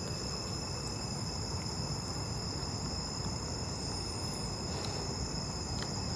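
Steady night-time chorus of crickets and other insects, several high shrill trills held level, over a low background hiss.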